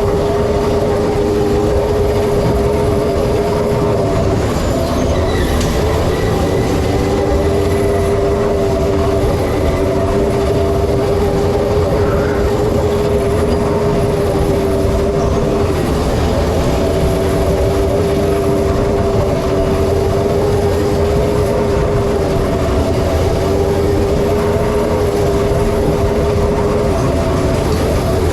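Steady mechanical running sound with a held two-note hum that dips briefly every five or six seconds.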